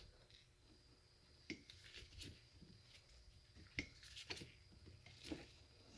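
Faint, scattered clicks and light knocks, about six of them, from handling a hand-held hydraulic crimp tool and a cable terminal lug.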